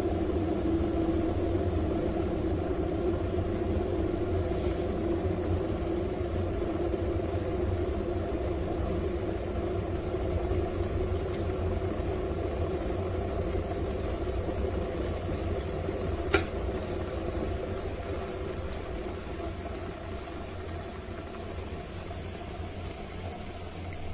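Stainless-steel electric kettle heating water with a steady rumbling hum, with one sharp click about 16 seconds in.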